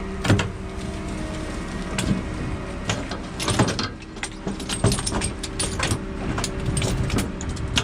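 A machine engine running steadily, with a string of sharp metallic clanks and knocks over it.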